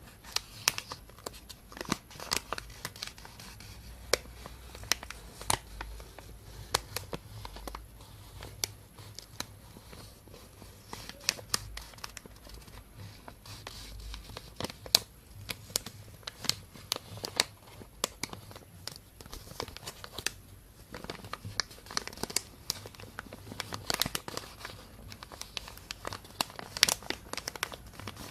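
Thin plastic bag crinkling and rustling close to binaural microphones, in dense, irregular crackles.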